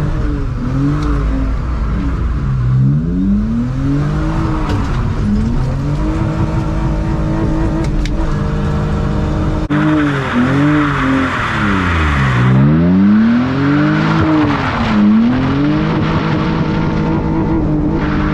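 BMW E46 325ci's inline-six with a header-back exhaust, driven hard: it revs up and drops back again and again. Under the engine there is a hiss of tyres on a wet road, louder for a few seconds in the middle.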